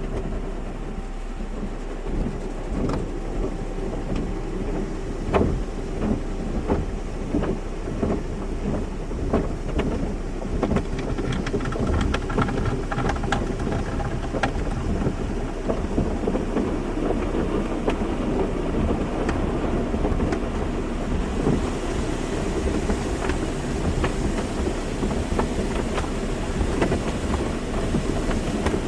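Car wash running: water spray drumming on a car's body in a dense, irregular patter, over a steady low machinery hum. About two-thirds of the way in, a brighter hiss of spray grows louder.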